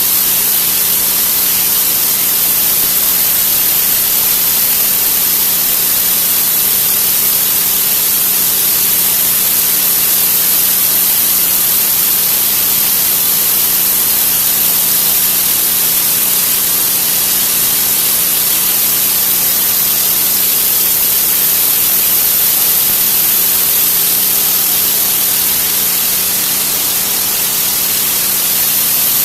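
Pressure washer spraying at full pressure: a loud, steady hiss of the water jet, with a faint steady hum underneath.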